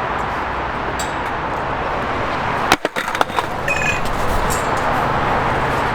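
Skateboard rolling, with a quick cluster of sharp clacks from the board about three seconds in.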